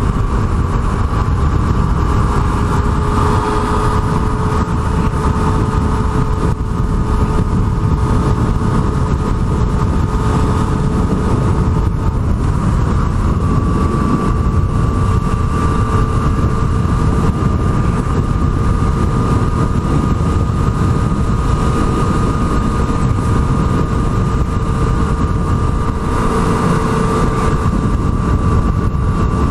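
Yamaha MT-09 motorcycle's inline three-cylinder engine running at a steady cruising speed, its tone holding nearly constant in pitch, under a heavy low rush of wind on the microphone.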